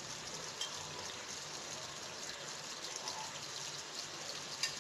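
Chicken pieces frying in oil and spices in a non-stick pan: a steady sizzle with light crackling. A brief knock near the end.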